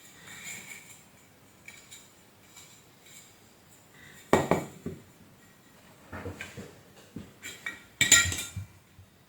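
Metal parts and tools clinking and knocking as a vacuum cleaner motor is handled: a loud knock about four seconds in, a run of lighter clicks, then another loud clattering hit about eight seconds in.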